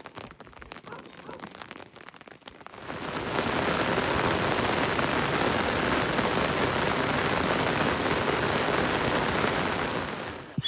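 Heavy rain: lighter, patchy falling drops for about the first three seconds, then a loud, dense, steady downpour from about three seconds in, easing off near the end.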